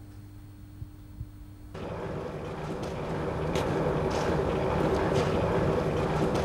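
Quiet room hum, then from about two seconds in a vehicle engine running, growing louder over the next couple of seconds, with a few short high ticks over it.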